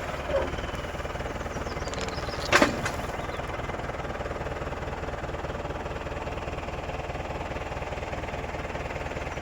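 An engine idling steadily, with a sharp double knock about two and a half seconds in.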